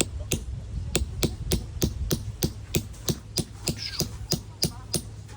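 A steady series of about sixteen sharp knocks, roughly three a second, like chopping or hammering with even strokes.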